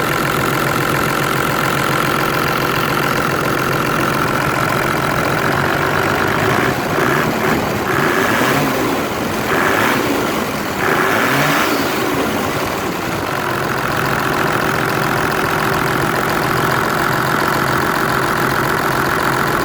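Toyota Land Cruiser 80 series 1HD-FT straight-six turbo diesel idling, blipped several times in quick succession in the middle before settling back to a steady idle.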